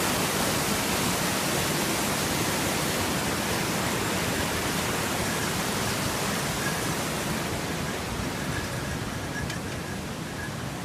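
River water rushing: a steady, even noise of flowing water that eases slightly near the end.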